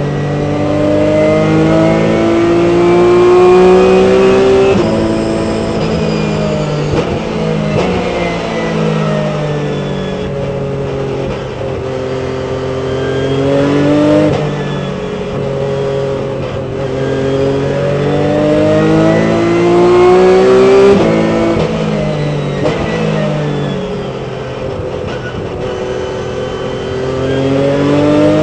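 Porsche 997 Cup car's flat-six engine heard from the cockpit, revving up through the gears with a sudden drop in pitch at each upshift. Between the climbs it falls in pitch as the driver lifts and brakes for corners, then accelerates again.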